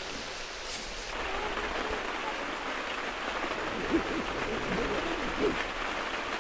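Steady rain falling, an even hiss of drops that grows a little louder about a second in.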